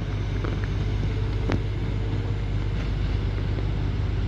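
Class 195 Civity diesel multiple unit running, a steady low engine hum that swells slightly at the start, with a single sharp click about a second and a half in.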